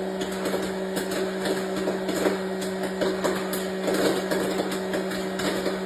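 A small electric motor running steadily with a constant buzzing hum and a light rattle.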